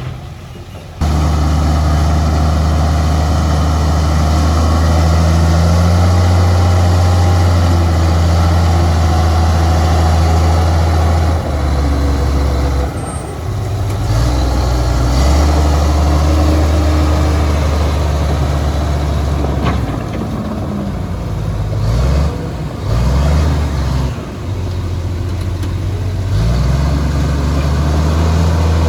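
Heavy diesel engine of earthmoving machinery running loud, starting abruptly about a second in. Its pitch shifts up and down several times as the load and throttle change.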